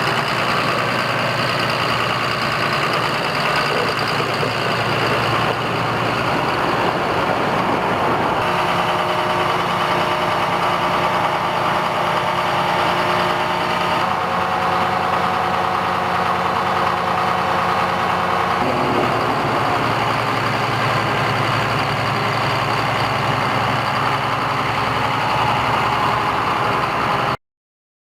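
John Deere 7200R tractor's six-cylinder diesel engine running steadily, its tone shifting a few times, then cutting off suddenly near the end.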